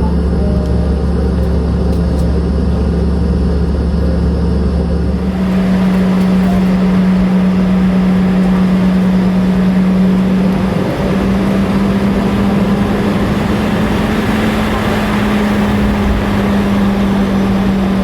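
Cabin noise of a Boeing 717-200 on the ground with its tail-mounted jet engines running at idle: a steady drone with a low tone. About five seconds in, the sound changes. A deep hum drops out, and a louder hiss with a steady tone carries on.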